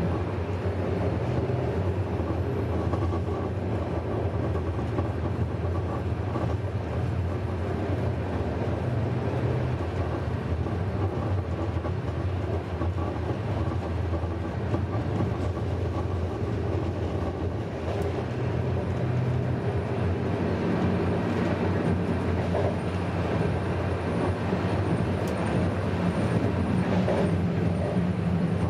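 Passenger train running, heard from aboard the carriage: a steady low rumble.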